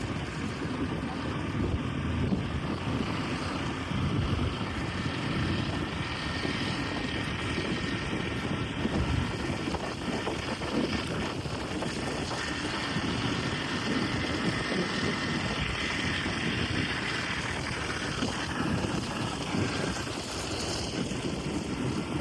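Wind buffeting the microphone: a steady rushing noise with an uneven low rumble that rises and falls in small gusts.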